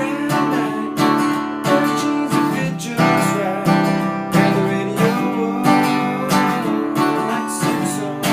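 Acoustic guitar strummed in a steady rhythm, working through a simple country progression on G, D and C chords.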